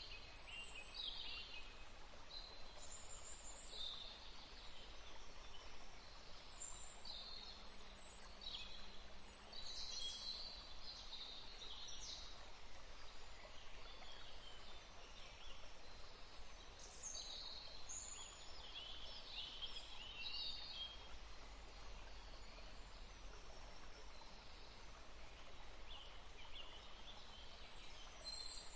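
Several small songbirds chirping and singing in short, high, overlapping phrases over a faint steady background hiss.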